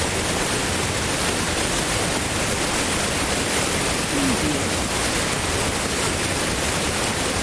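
Powerful, fast-flowing water rushing steadily, a dense even wash of sound like a big river or waterfall.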